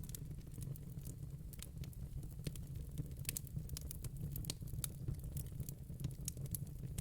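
Wood fire in a fire pit crackling, with quick irregular pops and snaps over a steady low rumble.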